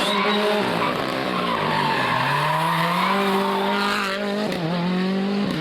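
Rally car engine through a corner: the revs drop to a low point about 2 s in, then climb as it accelerates, with a brief dip near 4.5 s like a gear change before rising again.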